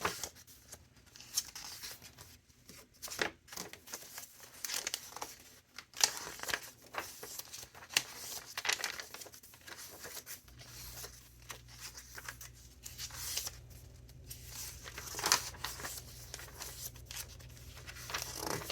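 Paper pages of a thick handmade junk journal being turned and handled, in a long run of irregular rustles, crinkles and sharp flicks.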